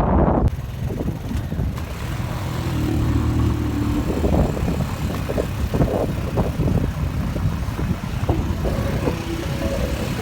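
Motorcycle engine running, with irregular knocks and bumps over it. Heavy wind buffeting on the microphone cuts off abruptly half a second in.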